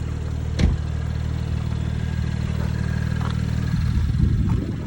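BMW N55 turbocharged inline-six with AWE and Dinan aftermarket exhausts running at a steady low speed. There is a sharp knock about half a second in, and the exhaust note roughens and grows a little louder near the end.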